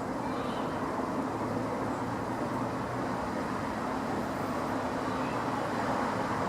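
Steady vehicle engine noise: an even rumble with a low engine hum running through it, holding level without any change.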